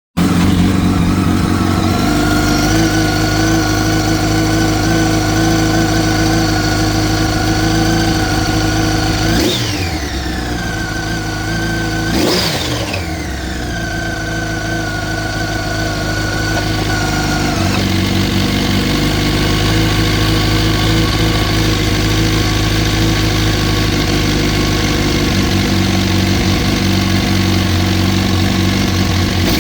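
2004 Yamaha YZF-R1's 998 cc inline-four engine idling, blipped twice in quick succession about a third of the way in, each time rising sharply in pitch and falling back to idle. It makes a bad-sounding engine noise that the owner suspects may be the cam chain tensioner.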